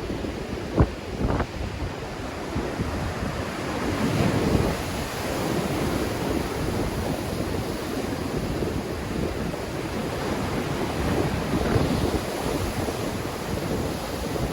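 Black Sea waves breaking and surging in strong wind, with wind buffeting the microphone. There are a couple of brief sharp thumps about a second in, and a louder surge of surf around four seconds in.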